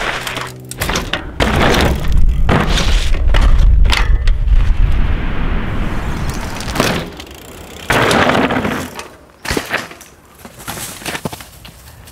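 Mountain bike ridden over rough trail: tyre noise on the ground with repeated sharp knocks and rattles from the bike, louder in the first part and quieter after about nine seconds.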